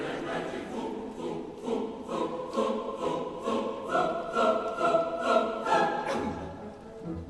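Choir singing in several voice parts, with short rhythmic syllables for the first few seconds, then sustained chords that fade away near the end.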